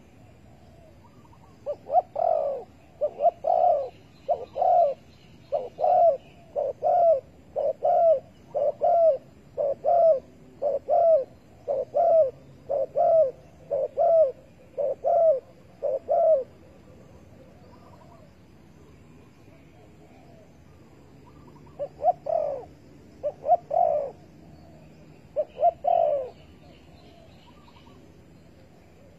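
Spotted dove cooing: a long run of repeated coo notes, about one a second, which stops and then comes back in three short groups a few seconds later.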